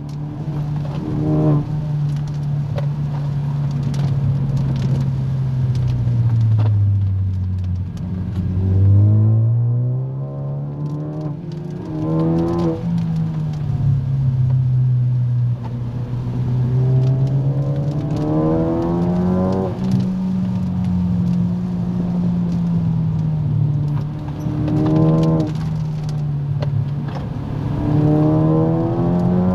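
Car engine heard from inside the cabin while driving a twisting road. Its pitch sinks as the car slows and climbs again each time it accelerates, several times over.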